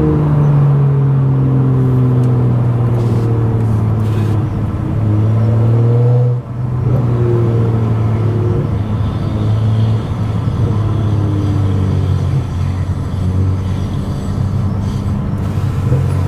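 Stage 2+ tuned BMW F10 535i's turbocharged straight-six and loud exhaust under acceleration. The engine note rises, drops sharply for a moment about six seconds in, as at a gear change, then climbs again.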